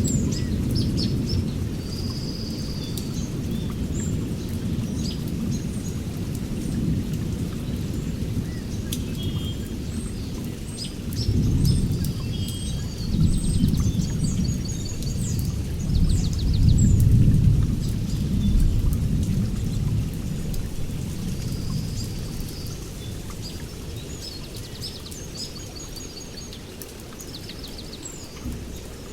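Songbirds chirping and trilling over a low rumble that swells twice midway and then fades away.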